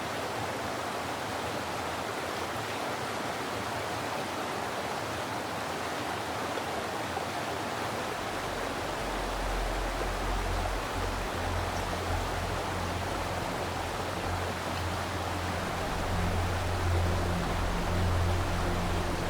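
Steady rushing of a forest stream. Soft background music with low held notes comes in about halfway through.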